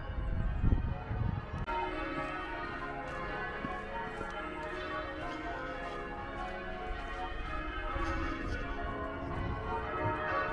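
Church bells ringing changes: several bells struck in turn in a continuous peal, fuller from about two seconds in. A brief low rumble near the start.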